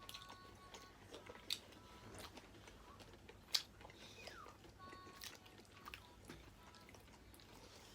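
Faint chewing and eating of seafood, with scattered sharp clicks.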